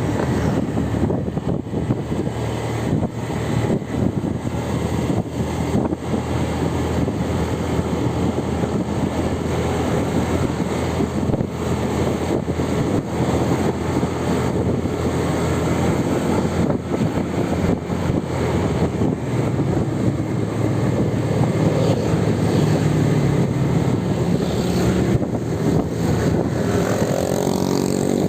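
Motor vehicle engine and road noise, running steadily, with an engine climbing in pitch as it accelerates near the end.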